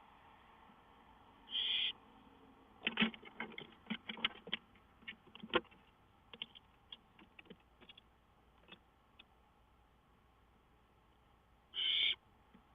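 Barn owl giving two short rasping hiss-screeches, about ten seconds apart. Between them comes a run of sharp clicks and knocks, loudest in the first few seconds after the first call.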